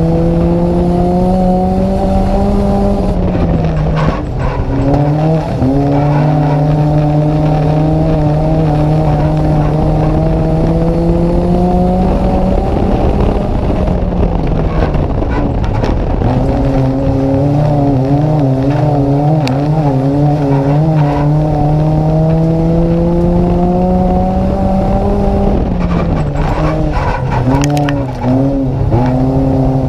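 Inside a Nissan Micra race car, the engine runs hard: its revs climb slowly, then dip briefly three times, about every twelve seconds, as it lifts for the turns. In places the engine note wavers.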